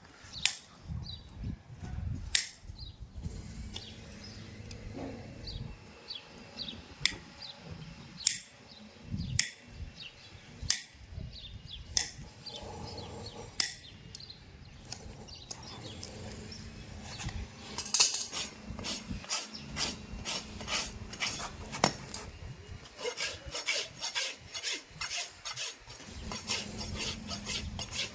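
A horse's hoof being trimmed and filed by a farrier with hand tools: sharp scraping strokes about once a second, turning into rapid, dense filing strokes about two-thirds of the way through.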